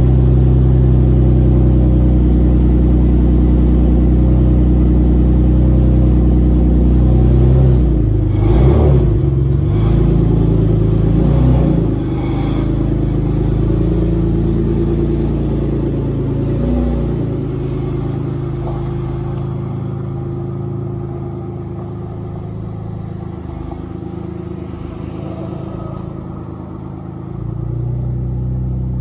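1994 Dodge Stealth R/T Twin Turbo's 3.0-litre twin-turbo V6 running, revved briefly a couple of times around the middle, then settling to a lower, quieter idle. It has an exhaust leak that sounds horrible.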